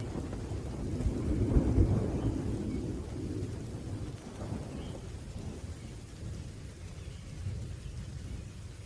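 Rolling thunder rumbling over steady rain. The rumble swells about a second and a half in, then slowly dies away.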